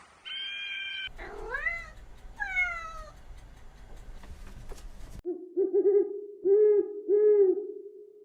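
Animal calls: a brief steady high-pitched call, then two curving calls that rise and fall. About five seconds in comes a different animal's run of four low, arched notes.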